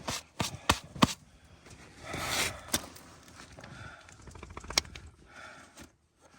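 Hand tools clinking and knocking against metal while starting work on a junkyard Jeep axle's lockout hub: a quick run of sharp clicks in the first second, a rustling stretch about two seconds in, then two more single knocks.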